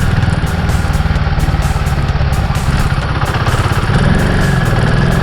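Motorcycle engine running steadily under way, with a rapid low pulsing and a rush of wind noise over it.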